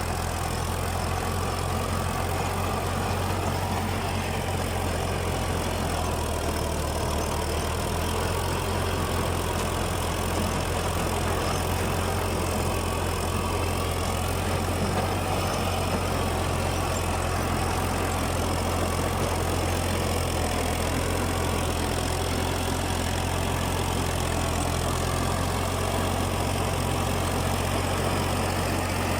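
Fiat 480 tractor's diesel engine running steadily while driving a rotavator through grass, an even low drone that does not change.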